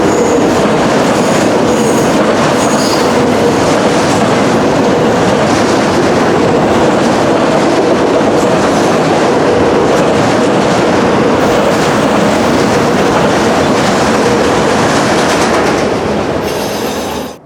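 Norfolk Southern freight train cars rolling past close by: a loud, steady rolling clatter with a faint wheel squeal. It cuts off suddenly at the very end.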